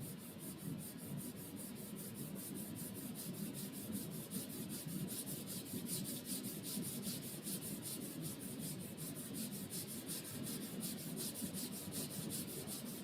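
Two palms rubbed vigorously back and forth against each other in quick, even strokes, a steady friction rubbing kept up as a hand-warming exercise.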